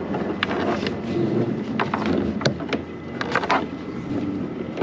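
Scattered sharp knocks and clicks from crabs and crabbing gear being handled in a kayak, over a low steady hum.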